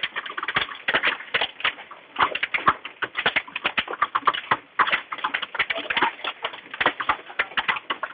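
Hailstones pelting a hard surface in a dense, irregular clatter of sharp knocks, many per second, with no let-up.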